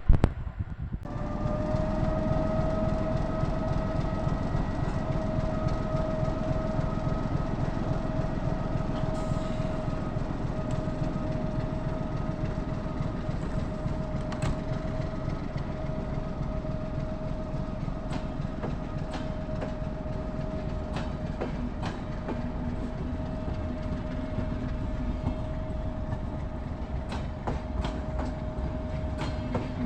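A train running on the track, with a steady whine and the clatter of wheels over the rails. It starts about a second in.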